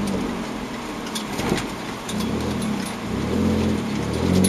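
Engine of a Toyota Land Cruiser Prado 150 rally car heard from inside the cabin, its revs rising and falling several times while driving on a dirt stage, with scattered clicks and rattles.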